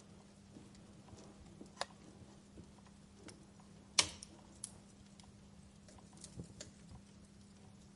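Wood fire crackling in a fireplace: sparse sharp pops and snaps, the loudest about halfway through, with a cluster of smaller ones near the end, over a faint steady low hum.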